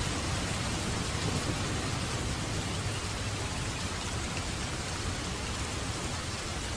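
Heavy rain falling steadily, with a low thunder rumble dying away in the first second or two.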